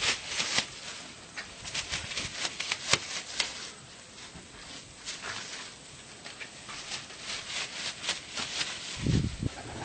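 Baghdadi pigeons moving about: scattered clicks, scuffles and rustles, with a low coo near the end.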